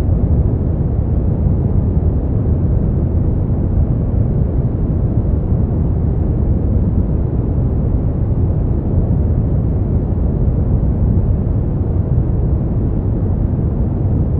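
Steady synthetic brown noise: an even, deep rumbling hiss weighted toward the low end, without change or events.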